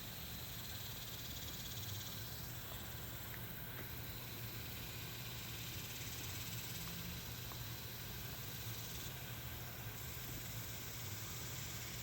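Insect chorus at dusk: a steady high-pitched hiss, with a faint low hum beneath it.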